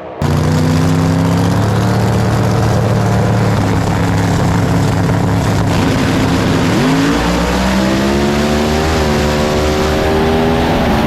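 Drag-racing truck engine running loud at steady high revs. About seven seconds in it climbs in pitch, dips briefly, then climbs again.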